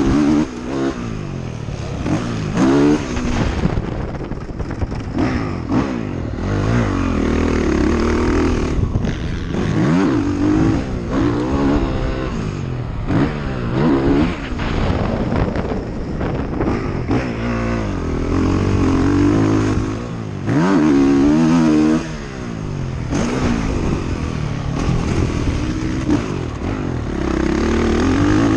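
ATV engine under hard riding, revving up and dropping back over and over, its pitch climbing and falling every second or two.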